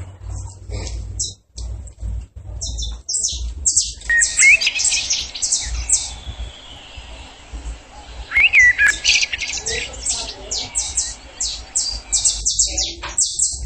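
Several small songbirds chirping in quick, repeated high notes, with a whistled call that rises and falls about four seconds in and again about eight and a half seconds in. A steady low hum runs underneath.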